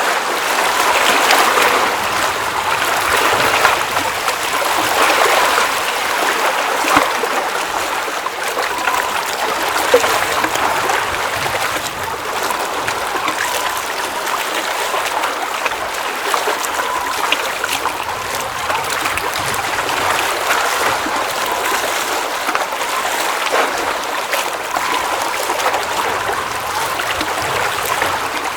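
Water at a mountain lake trickling and splashing steadily, with scattered small splashes.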